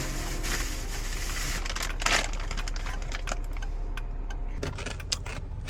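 Car interior with the engine running low and steady, scattered light clicks and rattles, and a brief rush of noise about two seconds in.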